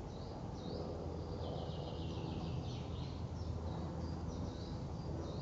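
Songbird song outdoors: short high chirping phrases, each a quick run of repeated notes, coming again and again over a steady low rumble.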